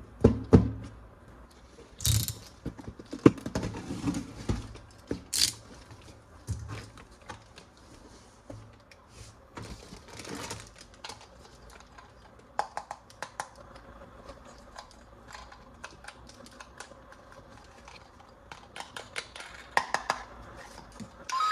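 Irregular clicks, taps and brief rustles of hard plastic toy parts and packaging being handled during an unboxing, with a few louder crinkly bursts about two and five seconds in.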